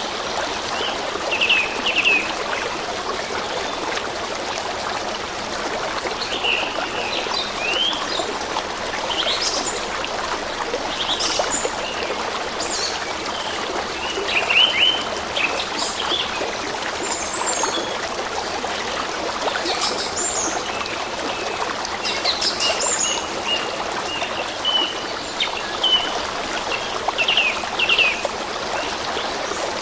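A stream trickling and splashing steadily, with small birds chirping and calling in short, quick phrases over it.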